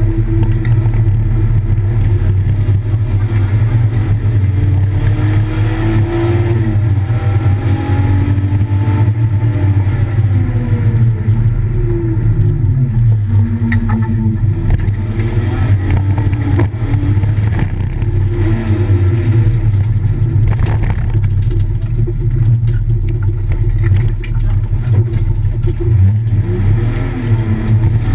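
BMW E36 engine heard from inside the cabin while lapping a race track: a loud, low engine drone whose revs rise and fall repeatedly through acceleration, gear changes and braking.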